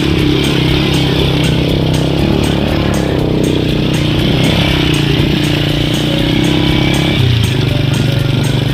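Small motorcycle engine running steadily, with a shift in its pitch about seven seconds in.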